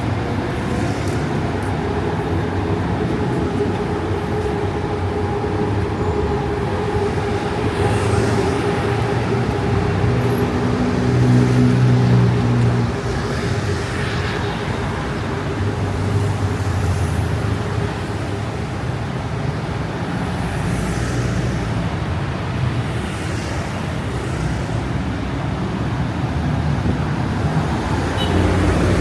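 Busy city road traffic: a steady rumble of car and heavy-vehicle engines and tyres. One heavy vehicle's engine grows louder about ten seconds in and then fades.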